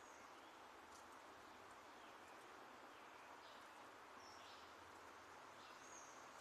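Faint small birds calling: scattered brief high chirps a second or so apart over a steady background hiss.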